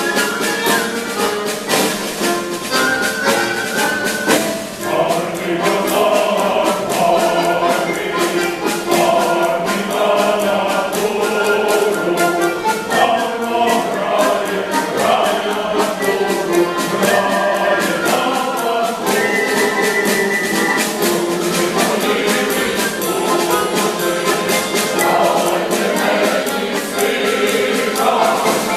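Mixed choir singing a Ukrainian song in several parts over instrumental accompaniment with a steady beat.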